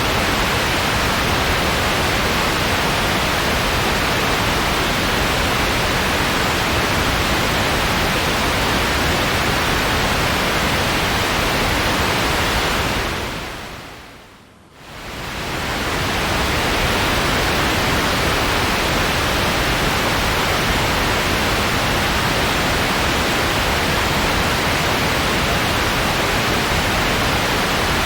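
Steady white-noise hiss, spread evenly from low to high pitches. About halfway through it fades down and swells back up within a couple of seconds, like a loop seam.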